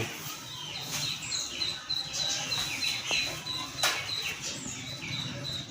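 Small birds chirping and twittering, many short high calls repeating quickly, with one sharp click about four seconds in.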